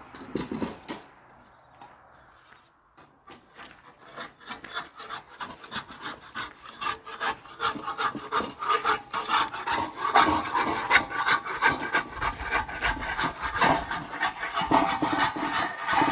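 Rapid, repeated scraping or rubbing strokes. A few come right at the start, then after a short lull they build up, getting busier and louder to the end.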